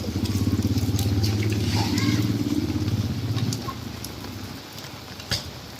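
Small motorcycle engine of a passing tricycle (motorcycle with sidecar), a steady low pulsing that fades away after about three and a half seconds. A single sharp knock comes near the end.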